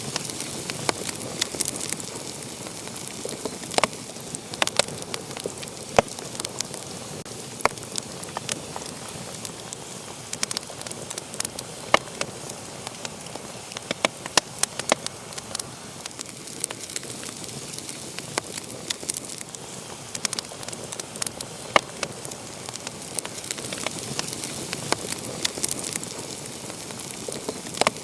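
Wood fire burning in a fireplace, crackling with many sharp, irregular pops and snaps over a steady hiss.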